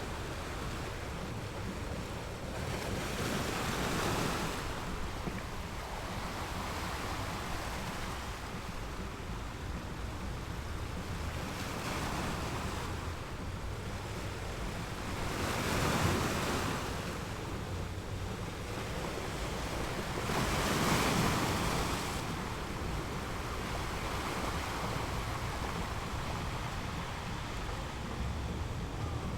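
Ocean waves rolling and breaking on a shore over a steady surf rumble, with three larger waves swelling and washing in, the loudest at about 16 and 21 seconds.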